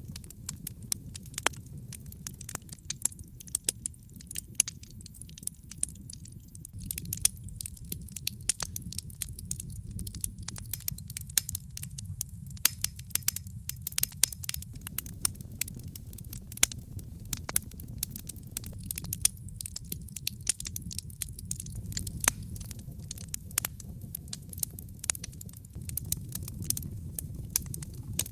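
Wood fire burning in a fireplace: a low, steady rumble of the flames with many sharp, irregular crackles and pops.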